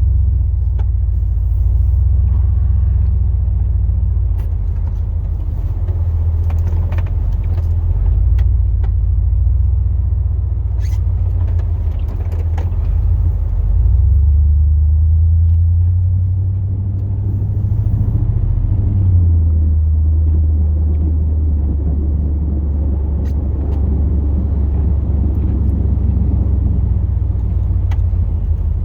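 Chevrolet Silverado's 8.1-litre big-block V8 running, heard from inside the cab as a steady low rumble. The engine note rises and falls as the truck moves, climbing about halfway through and dropping back a few seconds later.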